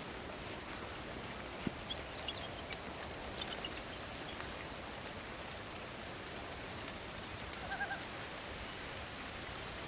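Night forest ambience: a steady hiss of rain and wind. A few short high chirps come two to four seconds in, and a brief wavering animal call, like a hoot, comes near the end.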